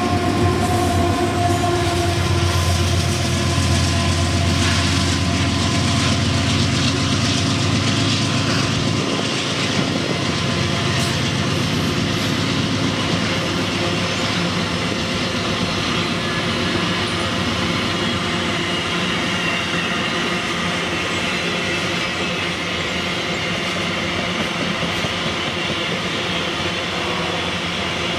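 A freight train passes close by. Its diesel-electric locomotives run loud and low for the first nine seconds or so, then a long string of ore hopper wagons rolls past with a steady rumble and wheel clatter over the rails, with faint high wheel ringing.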